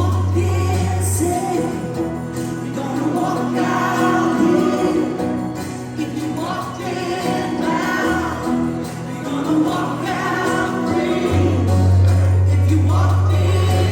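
Live gospel worship music: several voices singing with instrumental backing and a jingling, bell-like percussion. A deep, held bass note drops out about a second in and returns near the end.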